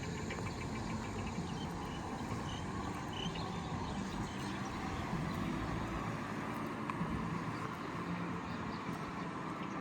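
Steady street ambience: a low hum of distant traffic, with a few faint high chirps from small birds in the first half.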